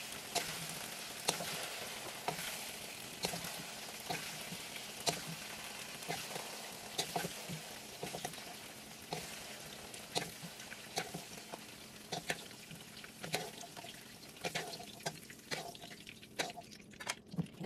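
Browned potato and carrot cubes sizzling in hot oil in a nonstick wok, with a wooden spatula and spoon knocking and scraping against the pan and bowl about once a second as the pieces are scooped out. The sizzle thins out near the end as the pan empties.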